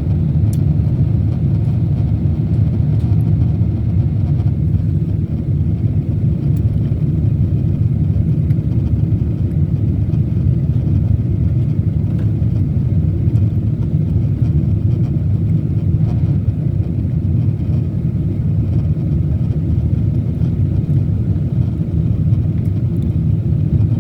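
Steady low rumble of a Boeing 777's engines and airframe, heard from inside the cabin during the landing.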